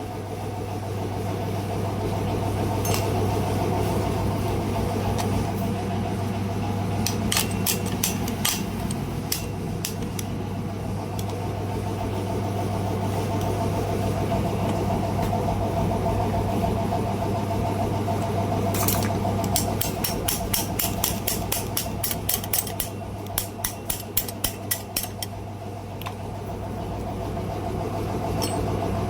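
A steady low mechanical hum, with scattered sharp clicks and a quick run of clicks or taps, several a second, about two-thirds of the way through.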